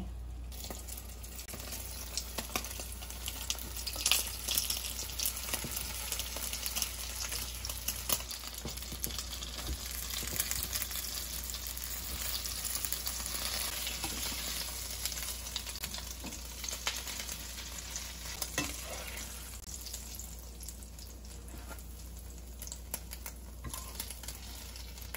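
Eggs frying in ghee in a frying pan, a steady sizzle with small crackles as an omelette cooks. The sizzle thins out somewhat near the end.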